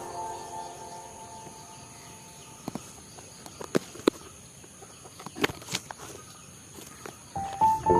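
Garden ambience in a break in the background music: a steady high insect trill with a few sharp clicks scattered through the middle. Music fades out at the start and comes back near the end.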